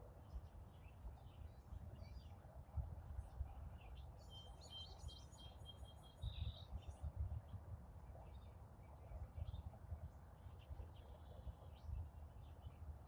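Faint morning birdsong: several songbirds chirping in scattered short notes, with a quick run of repeated notes about four seconds in, over a low steady rumble.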